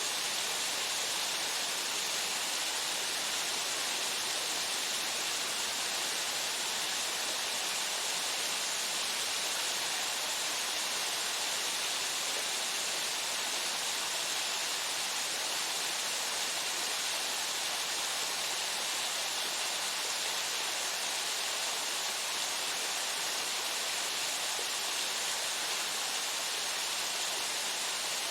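Waterfall pouring steadily into its pool, an even, unbroken rush of falling water with most of its energy in the upper, hissing range.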